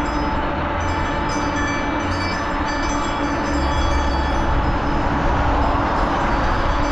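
Steady wind and road noise on a GoPro carried on a moving bicycle: a constant rushing roar with a low, uneven rumble from wind on the microphone.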